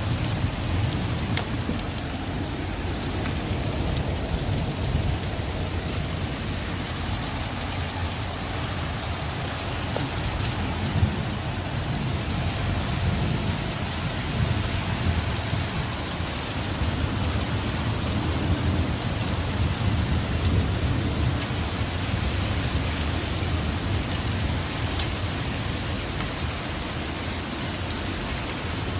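Heavy rain falling steadily, with a constant low rumble underneath and a few sharp drop hits.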